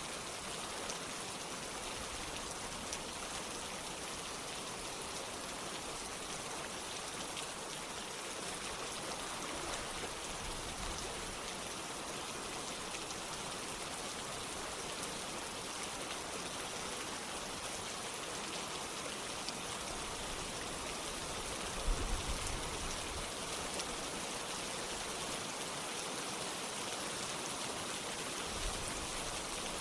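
Steady rain falling together with running water, an even rushing patter. About two-thirds of the way through there is one brief low thump.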